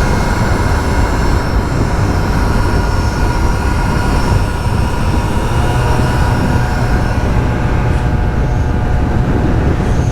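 Scooter engine droning at a steady cruising speed with heavy wind rush over the microphone, a thin engine whine riding on top, shifting slightly in pitch about two-thirds of the way through.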